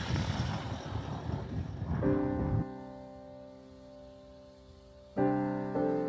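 Slow background piano music: a held chord enters about two seconds in and fades, and a second chord with a note just after comes about five seconds in. Before the piano, a rumbling ambient noise cuts off abruptly.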